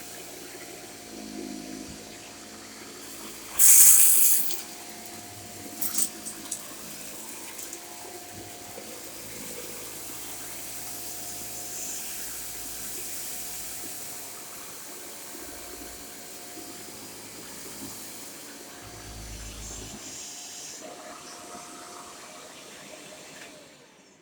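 Shark corded Anti Hair Wrap Lift-Away vacuum cleaner running steadily while vacuuming, with a brief loud rush of noise about four seconds in and a few clicks near six seconds. The sound dies away near the end.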